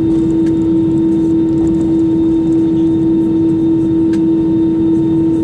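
Steady cabin noise inside an Airbus A320-200: a constant drone with one strong held hum and a rumble beneath it, unchanging throughout.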